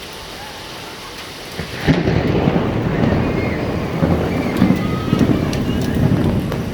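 Steady rain, then a sudden crack of thunder about two seconds in that rolls on as a loud, uneven rumble.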